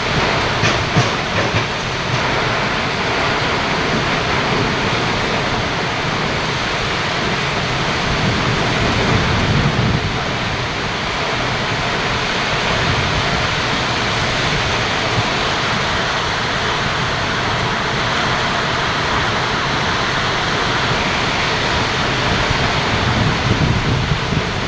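Heavy rain falling in a windstorm: a steady, even downpour hiss, with gusts of wind now and then rumbling on the microphone.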